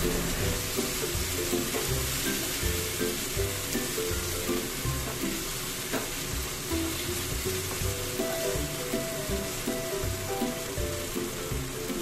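Meat-and-tomato bolognese sauce sizzling in a non-stick frying pan while a spatula stirs it, a steady sizzle with soft scraping strokes.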